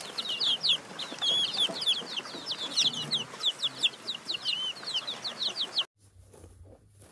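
Birds peeping in quick high-pitched chirps, several at once, about four a second, until a sudden cut about six seconds in. After the cut come faint clicks over a low hum.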